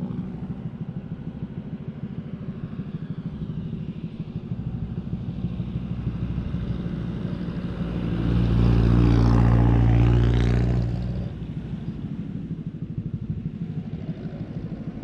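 Motorcycle engine running steadily on the road, with wind and road noise. About eight seconds in, a louder engine sound swells for roughly three seconds and then fades.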